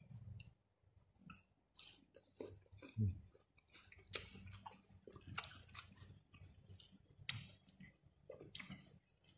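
Close-up mouth sounds of a person chewing a bite of fresh fruit coated in rujak sauce, with irregular crisp crunches.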